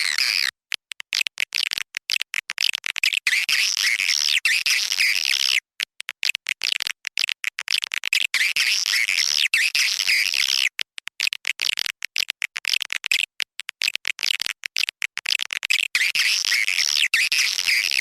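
Recorded swiftlet calls used as a lure sound for swiftlet nest houses: high, chattering twitters broken up by many short gaps, which swell into dense twittering in waves every few seconds.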